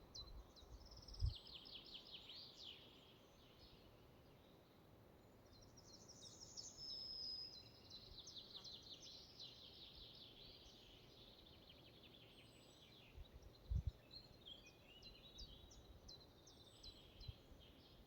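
Faint forest birdsong: small songbirds singing repeated short trilled phrases. There are two brief low thumps, about a second in and again near 14 s.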